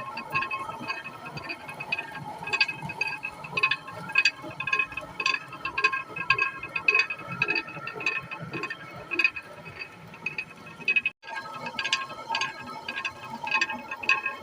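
Traditional water-powered flour mill running: a quick, even clacking, about three knocks a second, over a steady ringing hum. The sound breaks off for an instant about eleven seconds in.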